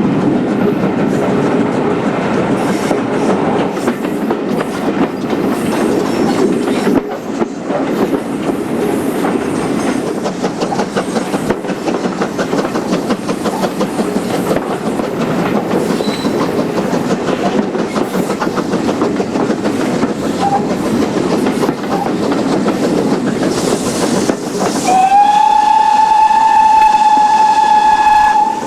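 Passenger carriage running behind a steam locomotive, a steady rush and clatter of wheels on the rails. Near the end the locomotive, GWR 42xx-class 2-8-0 tank No. 4277, sounds its steam whistle: one long note that rises slightly as it opens and then holds steady for about three and a half seconds.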